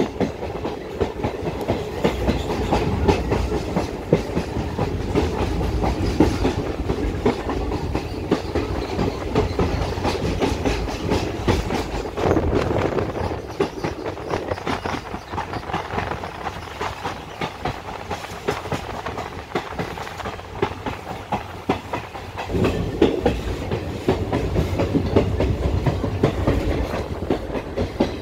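Passenger train running, heard from an open doorway of the coach: a steady rumble with the rapid clickety-clack of wheels over the rail joints. It eases somewhat for a stretch in the middle and grows louder again near the end.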